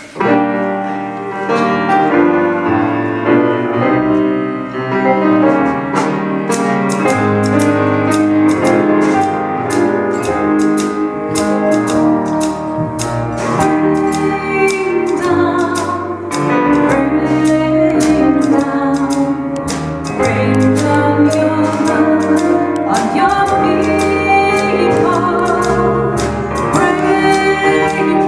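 Live piano trio playing a slow song. A steady cymbal tick comes in about six seconds in.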